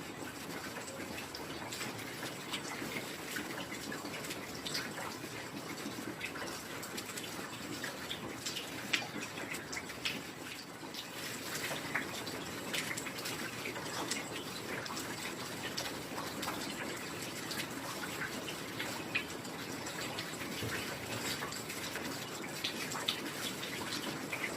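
Heavy rain falling steadily, with many drops spattering and dripping close by.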